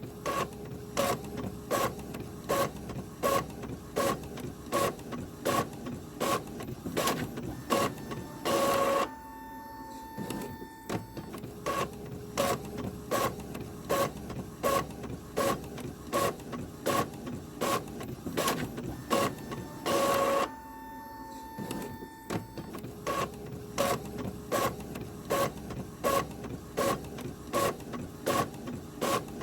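Printer running: a steady, regular mechanical clicking, about two or three clicks a second. Twice, about nine and twenty seconds in, a louder burst of under a second with a held tone breaks in.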